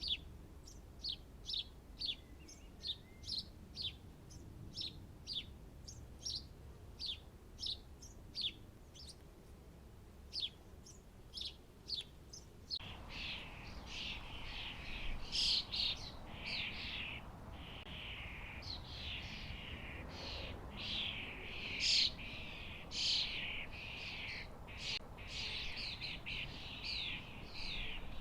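Small garden birds calling and singing: a steady run of short, high, downward-sliding chirps. About halfway through, after an abrupt change, it gives way to a denser, louder mix of overlapping birdsong.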